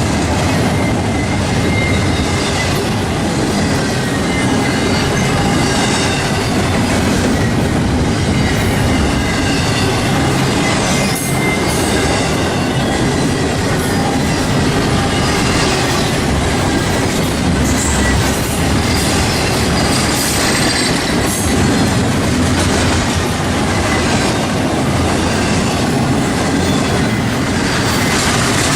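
Norfolk Southern freight train cars rolling steadily past, with wheels clacking over the rail joints and a faint high-pitched squeal of wheels on rail.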